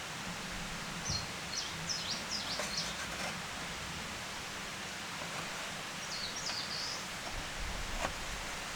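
Steady rushing of a forest stream, with a small bird giving quick, high, sliding chirps about a second in and again around six seconds.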